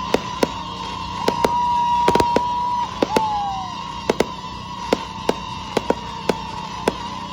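Fireworks bursting in an irregular string of sharp bangs, sometimes several a second, over a steady high tone. Around the middle a held whistle-like tone ends in a short falling whistle.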